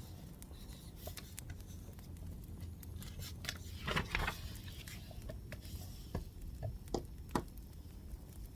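Wood fire crackling over a steady low hiss, with scattered sharp pops and a brief louder rustling burst about four seconds in.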